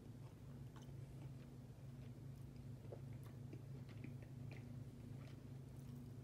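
A person chewing a mouthful of tender chicken curry: faint, scattered wet mouth clicks and smacks over a steady low hum.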